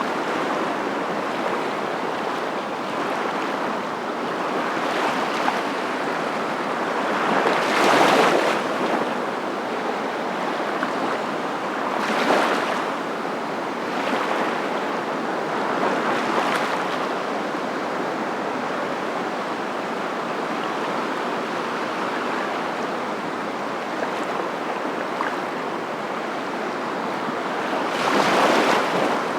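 Steady rushing surf, swelling louder every few seconds as waves break, most strongly twice.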